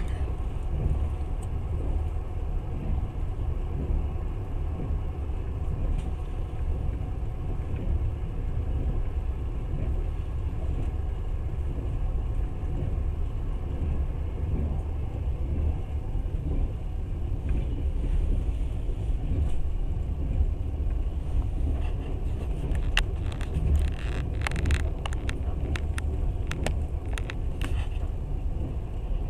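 Passenger train running, a steady low rumble of the moving carriage, with a spell of sharp clicks and rattles in the last ten seconds or so.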